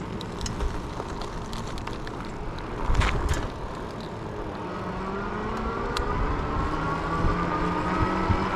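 Electric hub motor of an Ecotric fat-tire e-bike with wind and tyre rumble, a short burst of rattling clicks about three seconds in, then the motor's whine rising steadily in pitch from about five seconds in as the bike speeds up.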